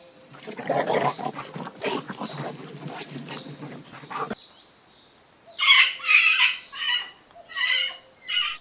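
Farm animal calls: a rough, noisy stretch for about four seconds, then, after a short pause, four short, loud calls in a row.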